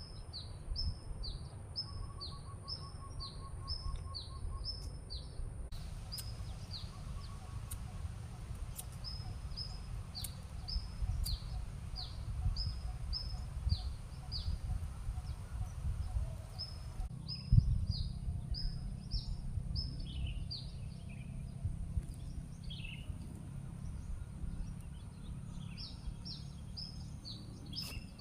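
A bird calling over and over with a short, high note that drops in pitch, about two to three calls a second, over a steady low rumble. A single thump about seventeen seconds in.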